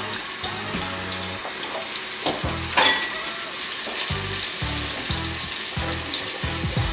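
Minced garlic and crushed red pepper sizzling in warm olive oil in a nonstick skillet, a steady frying hiss, with one sharp clink about three seconds in. Background music with a low beat plays underneath.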